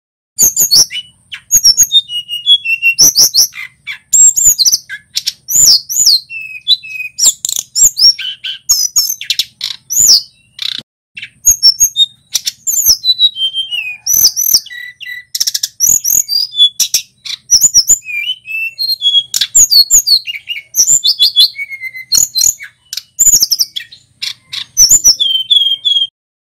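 Male tledekan gunung singing loudly and without let-up: rapid high twittering phrases mixed with short whistled glides, stopping suddenly near the end.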